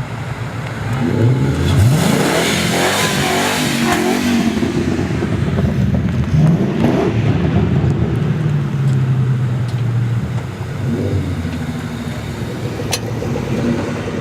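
Car engines revving as the cars accelerate away, rising in pitch about a second in and again around six and eleven seconds, with a steadier engine note in between.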